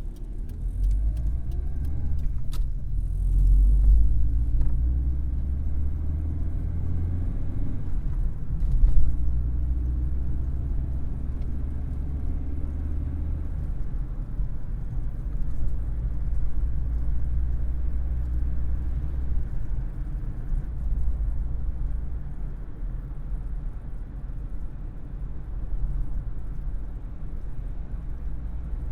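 Vauxhall Carlton engine running with a deep, steady rumble. A few sharp clicks sound in the first seconds, and there is a brief louder surge about nine seconds in.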